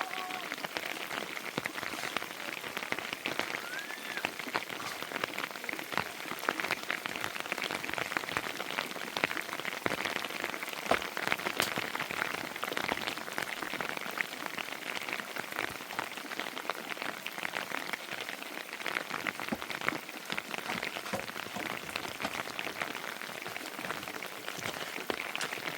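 Heavy rain falling steadily, a dense patter of many small drop impacts.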